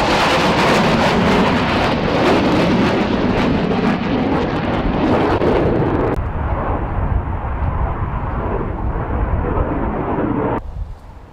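Loud aircraft engine noise from a flying display pass. About six seconds in, the sharper high part of the sound drops away and it turns duller, and it dips briefly near the end.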